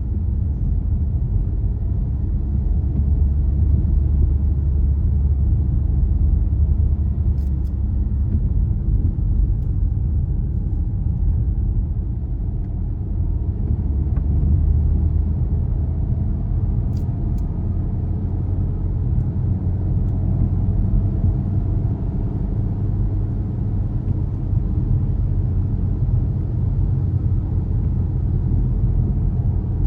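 Car driving along a road: a steady low rumble of engine and tyre noise that swells and eases a little, with a few faint clicks.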